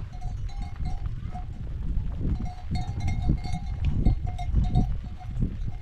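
A livestock neck bell ringing over and over at an uneven pace, the same tone each time, as the animal moves, over a steady low rumble.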